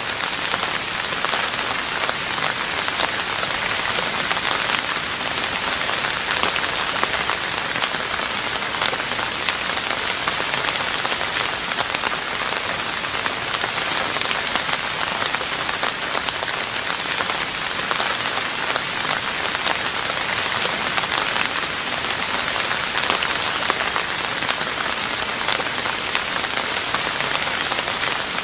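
Steady rain falling on a roof, a dense even patter of drops with no pauses or changes.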